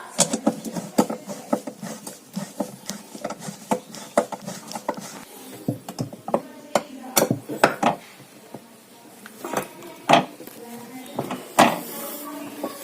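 Metal clicking and clinking at an uneven pace as a screw is tightened into the centre of a washing machine's drum pulley.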